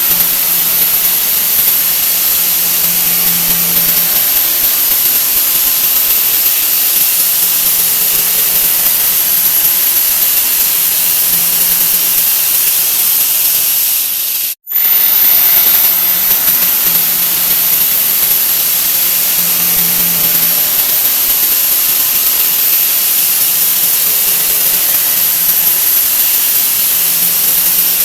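A 'wah wah' sound effect sped up so many times that it has turned into a loud, steady hiss with a high whine on top. It cuts out for an instant about halfway through, then goes on unchanged.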